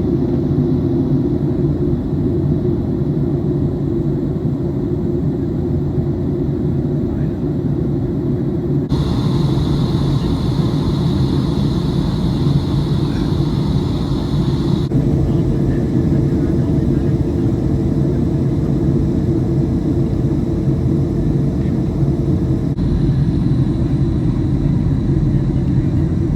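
Steady airliner cabin noise on descent, a loud low rumble of jet engines and airflow. Its character changes abruptly about nine and fifteen seconds in, and a faint steady hum rides on it for several seconds after the second change.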